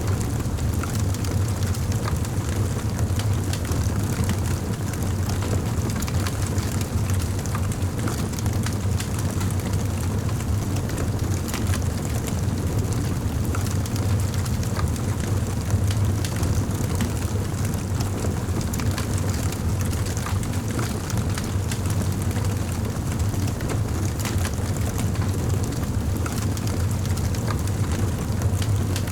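Fireplace fire crackling steadily, many small pops and snaps over a low, steady rumble of the flames.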